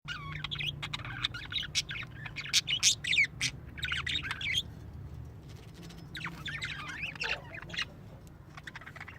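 Small birds chirping and squawking rapidly, several calls overlapping; busiest in the first four and a half seconds, with another flurry from about six to eight seconds in.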